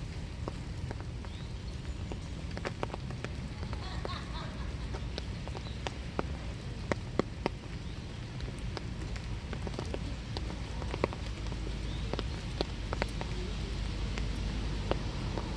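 Winter rain falling steadily, with many sharp single drops tapping on nearby surfaces over an even hiss and a low steady rumble.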